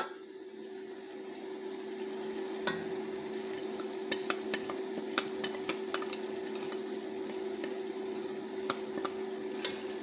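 Masala frying in hot oil in a pot with freshly added ground spices: a steady sizzle with scattered small clicks and pops, over a steady low hum.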